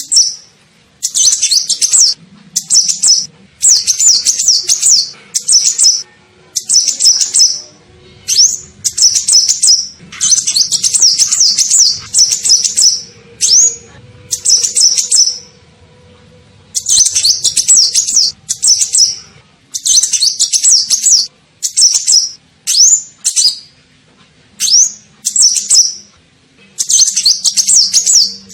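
Sunbird ('kolibri ninja') song played as a bird-trapping lure call. It comes in repeated bursts of rapid, high, twittering chirps about a second long, separated by short pauses.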